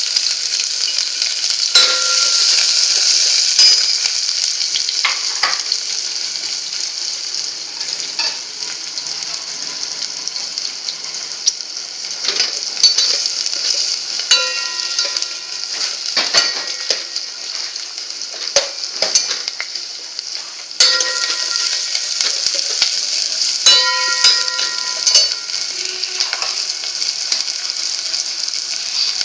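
Spices sizzling in hot oil for a tadka, with a steady frying hiss. A metal spoon stirs and scrapes the pan, clinking against it again and again with short metallic rings.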